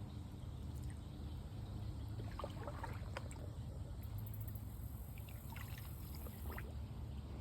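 Shallow creek water sloshing and splashing in short bursts, about two seconds in and again around six seconds, over a steady low rumble.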